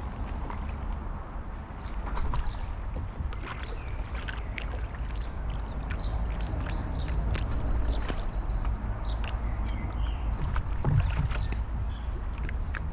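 Paddle strokes splashing and dripping in canal water from a stand-up paddleboard, over a low wind rumble on the microphone. A small songbird sings a fast run of high repeated notes from about six to nine seconds in.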